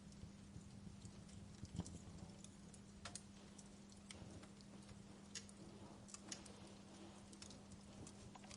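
Faint wood fire crackling: irregular, scattered sharp pops and snaps over a soft background hiss.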